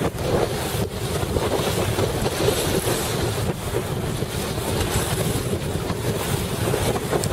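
Strong wind buffeting the microphone, with water rushing and splashing along a sailboat's hull. The noise is loud and steady.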